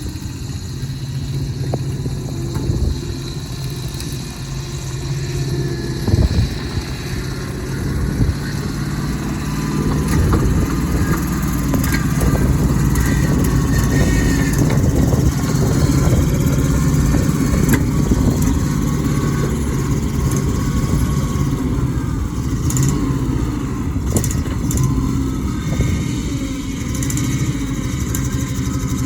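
1979 International 1723 truck's engine running steadily, getting louder about ten seconds in.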